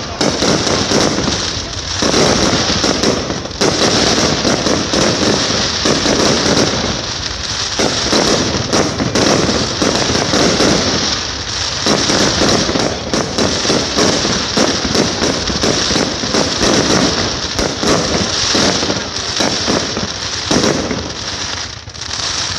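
Aerial fireworks bursting overhead in a dense, unbroken barrage of crackling and bangs, the glittering shells crackling as they spread.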